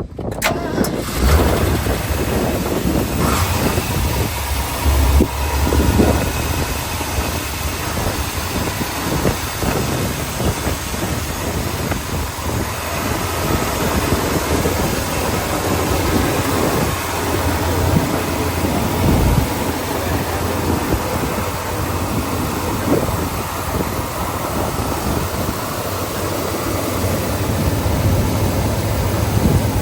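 Ford grain truck's engine running steadily, its low rumble setting in about a second in.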